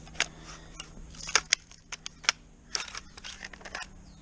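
A string of irregular sharp clicks and taps, about a dozen, from equipment being handled, over a faint steady hum.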